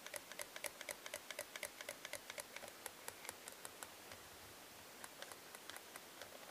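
CB microphone's push-to-talk key clicked over and over, about four or five clicks a second, then a few slower clicks near the end: keying it repeatedly to work freshly sprayed contact cleaner into the switch.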